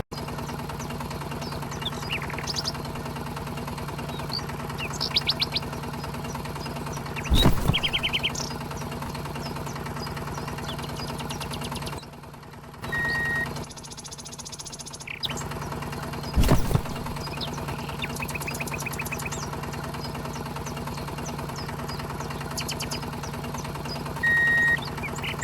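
A steady engine-like motor hum, with birds chirping throughout. The hum dips out for about three seconds midway. Two loud thumps and two short beeps break in.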